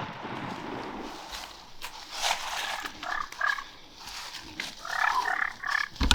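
A shotgun report dies away, then wild turkeys call in two short bursts of quick, repeated notes, with a few sharp clicks in between.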